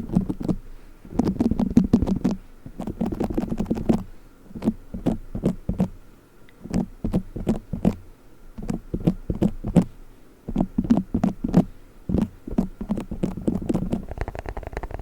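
Play foam, a bead-filled modelling compound, squeezed and kneaded close to the microphone: dense bouts of tiny crackles and pops over a soft squish, each bout lasting a second or two with short pauses between squeezes.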